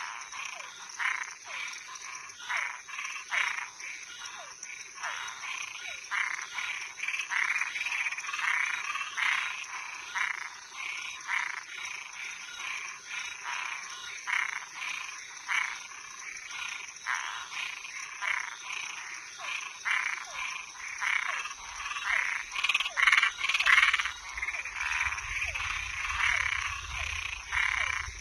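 Night chorus of frogs and treefrogs calling from a pond: many short, overlapping calls, several a second, over a steady high-pitched hum, with a low rumble joining in over the last few seconds.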